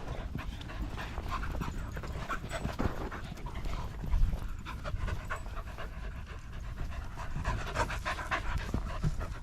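Small dogs panting in quick, short breaths.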